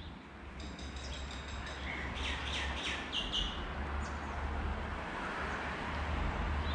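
Small birds chirping in quick runs of short, high notes during the first half, over a steady low rumble.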